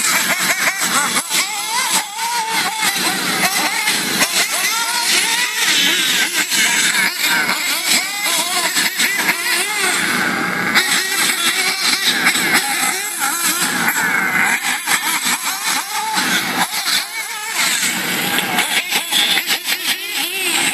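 Battery-electric RC cars running hard, their motors whining with a pitch that rises and falls quickly as they speed up and slow down. Tyre scrabble and frequent sharp clicks run under the whine.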